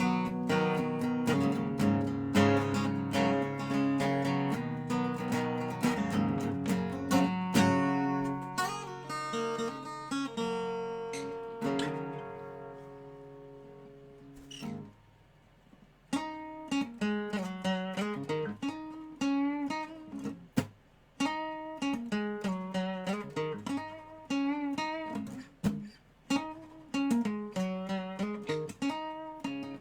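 Dobro (resonator guitar) playing: strummed and picked chords ring and die away to near silence about halfway through. After a short pause, a repeated riff with sliding notes starts up.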